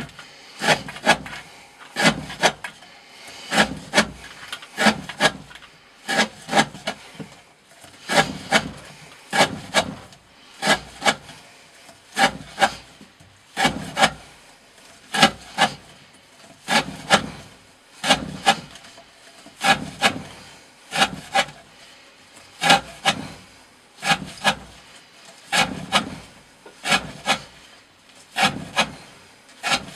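Knife blade slicing through thick rope again and again, a sharp rasping cut about every second and a half, many in quick pairs.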